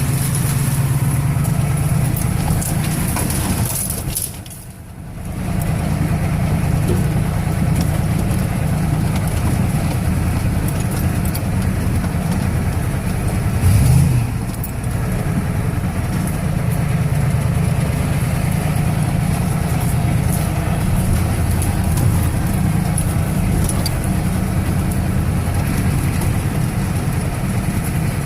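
1985 Ford 6.9-litre diesel V8 running steadily under way, a deep drone. Its sound drops away briefly about four seconds in, and swells louder for a moment with a rise and fall in pitch about halfway through.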